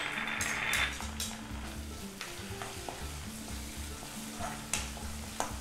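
Chopped onions with ginger-garlic paste sizzling in oil in a non-stick kadai while a spatula stirs them, scraping and knocking against the pan several times. The sizzle is loudest right at the start.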